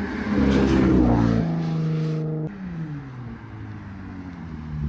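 A car engine rising in pitch, holding briefly, then falling away and quieting about halfway through.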